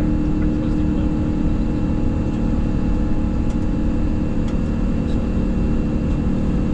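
Steady ambient noise on the flight deck of an Airbus A350-900: a dense low rumble with a constant hum and a thin high tone running through it, and a few faint ticks in the middle.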